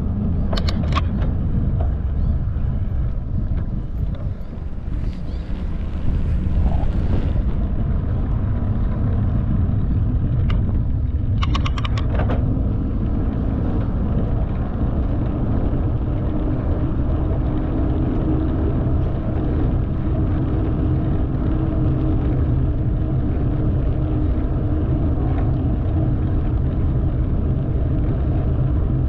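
Knobby mountain-bike tyres running on pavement: a steady low rumble. Short clusters of sharp clicks come about a second in and again around eleven to twelve seconds in.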